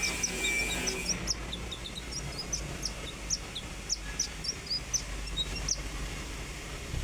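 Common iora (konin) singing: a quick, uneven string of short, sharp high chirps, about three or four a second, over a low steady hum.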